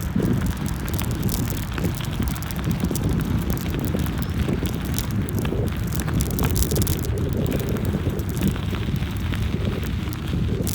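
Wind buffeting the microphone: a steady low rumble with scattered crackles and clicks.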